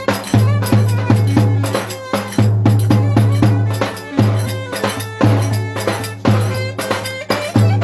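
Lively Turkish folk dance music from a band, instrumental: a steady drum beat with strong low hits under a melody line.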